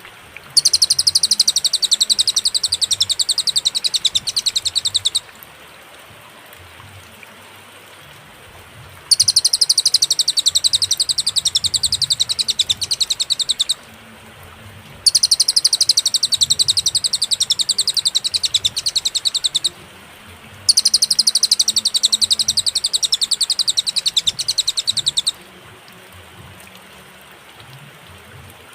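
Cililin singing a fast, high, tightly repeated trill, in four bursts of about four and a half seconds each, broken by pauses. During the pauses only a faint steady hiss remains.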